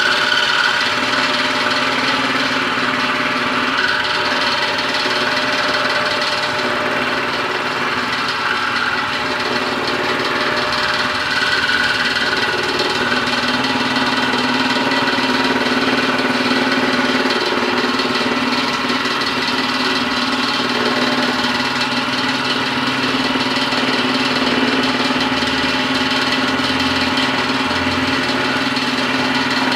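Homemade scroll saw built from a sewing machine, its motor and reciprocating blade mechanism running steadily.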